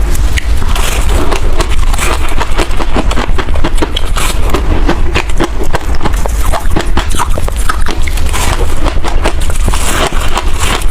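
Close-miked chewing of freezer frost: a dense, irregular run of crisp crunches and crackles as the ice is bitten and ground between the teeth.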